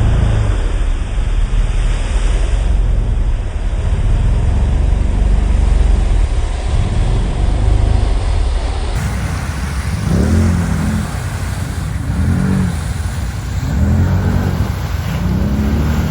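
Quad (ATV) engine running hard, then revving up and down repeatedly, in quick rises and falls of pitch through the second half.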